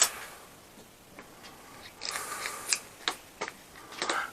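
Scattered light clicks and small rattles of hand tools being handled: a sharp click at the start, a cluster of rattling clicks about two seconds in, and a few single clicks near the end.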